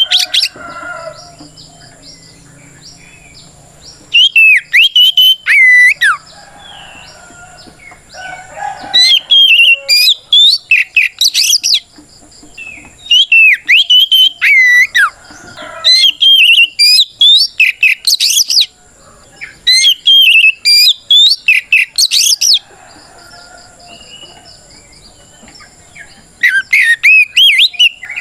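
Oriental magpie-robin (kacer) singing its loud, clear challenge song, calling out a rival: rapid whistled phrases that glide up and down. The phrases come in bursts of two to three seconds with short pauses between them.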